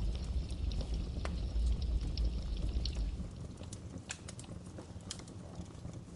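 Wood fire crackling, with irregular sharp pops and snaps over a soft hiss. A low rumble under it drops away about halfway through.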